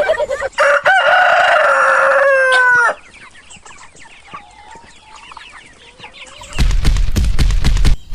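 Rooster crowing: one long call ending in a drawn-out falling note. About six and a half seconds in, a loud, fast, rhythmic pounding starts.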